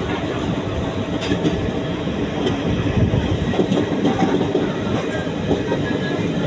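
Moving passenger train: steady running noise of the coaches with wheels clicking over rail joints.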